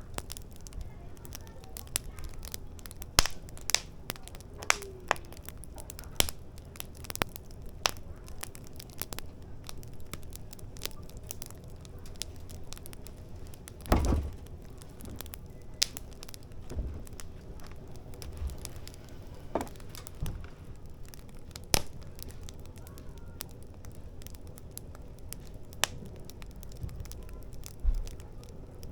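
Firewood burning in a fire pit, crackling with irregular sharp pops; one louder pop comes about fourteen seconds in.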